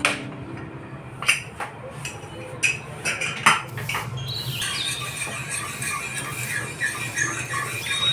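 A few sharp clicks and clatters in the first few seconds, typical of kitchen utensils on pots and dishes. From about four seconds in, birds chirp and warble steadily.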